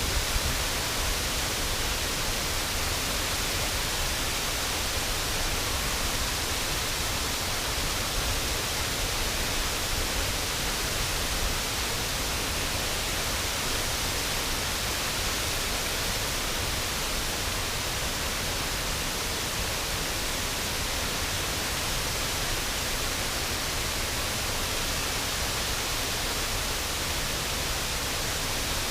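Waterfall on a river: falling water rushing steadily and evenly, with a low rumble underneath.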